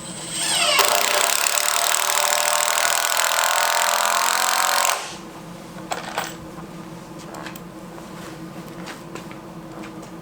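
Handheld power tool spinning up with a rising whine, running loud and hard for about five seconds, then cutting off abruptly; a couple of light clicks follow.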